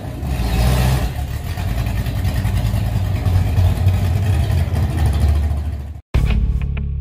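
A car engine running loudly with a deep exhaust rumble. It cuts off abruptly about six seconds in, and music with a heavy beat starts.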